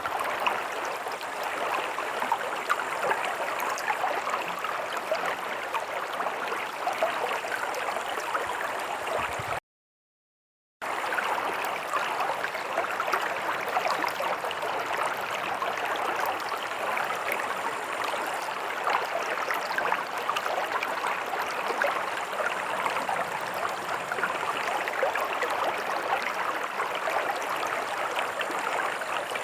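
Stream water running and splashing steadily over stones. About a third of the way in it cuts out completely for about a second, then resumes.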